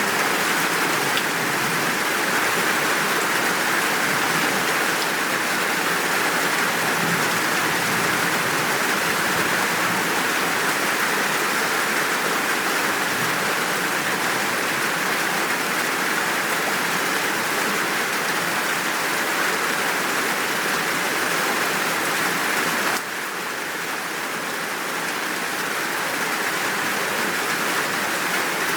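Steady, full rain downpour, an even hiss of drops. About three-quarters of the way through it suddenly turns a little quieter and then slowly swells again.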